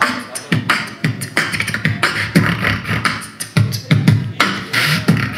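Beatboxing a drum-and-bass beat with the mouth: low vocal kick-drum thumps and hissing snare hits in a quick, repeating rhythm.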